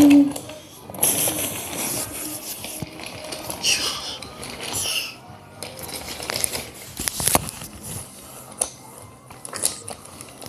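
Wooden toy trains clattering on wooden track: irregular light clicks and knocks, with one sharper click about seven seconds in.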